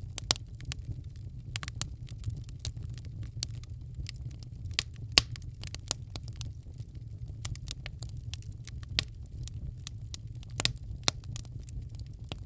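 Wood fire crackling in a fireplace: irregular sharp pops and snaps over a steady low rumble of the flames, with a louder pop about five seconds in and another about nine seconds in.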